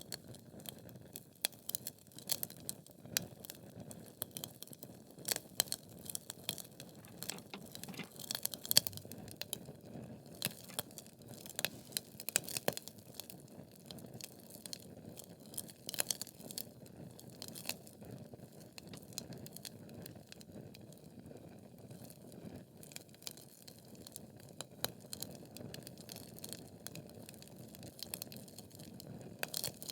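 Wood fire in a fireplace: logs burning with irregular sharp crackles and pops over a steady low rushing of the flames. The loudest pop comes about nine seconds in.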